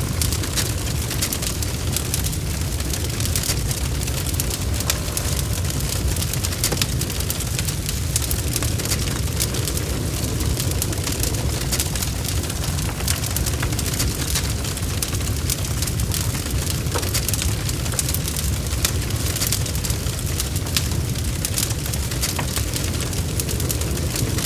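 Wood fire crackling in a fireplace, with frequent small pops and snaps over a steady low rumble, mixed with a constant hiss of rain.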